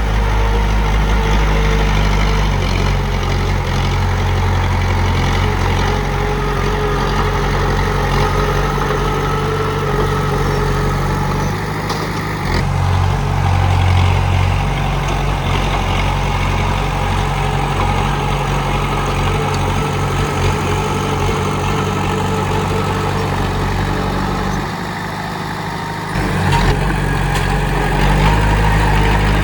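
Komatsu D31P bulldozer's diesel engine running steadily, dropping in level for a second or so near the end, then picking up again.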